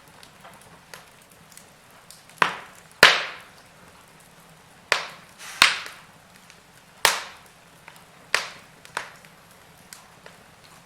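Wood fire crackling: a handful of sharp pops, the loudest about three seconds in, among small ticks.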